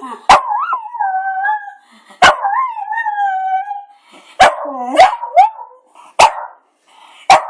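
A pet dog howling in long, wavering, gliding notes, three drawn-out howls one after another, with sharp loud clicks between them.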